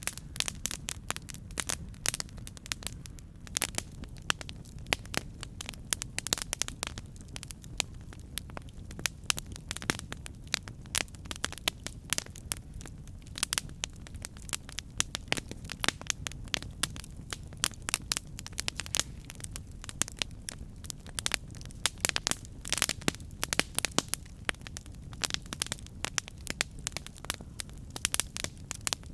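Campfire burning, with frequent irregular crackles and pops over a steady low rumble of the flames.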